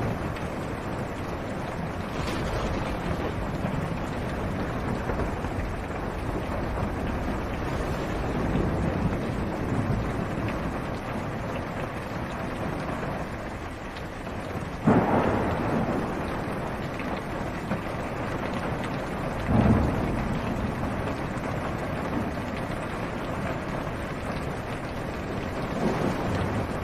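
Steady rain on a car roof heard from inside the car, with thunder: two sudden sharp claps about halfway through, a few seconds apart, each rolling off, and softer rumbles before and near the end.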